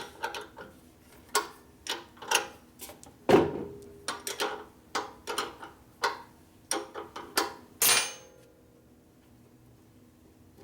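Hand wrench working the front axle pinch bolt on a Harley shovelhead, a string of sharp metallic clinks with a short ring, about two a second. The loudest clink comes a little over three seconds in, and the clinking stops near the end.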